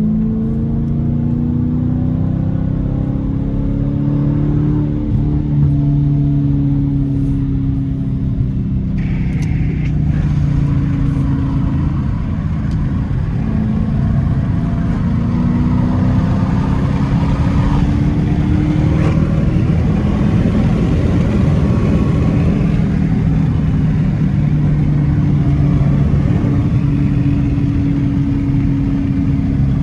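Straight-piped Dodge Challenger R/T's Hemi V8 exhaust under way, its pitch rising under acceleration and dropping back several times as it shifts and eases off, over a deep steady rumble.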